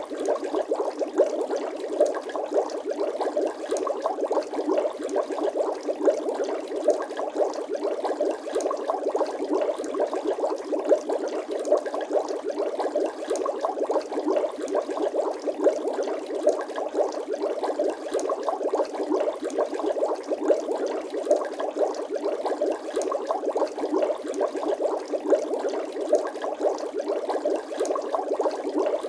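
Bubble sound effect: a steady, dense stream of small bubbles popping and gurgling in water, unchanging throughout.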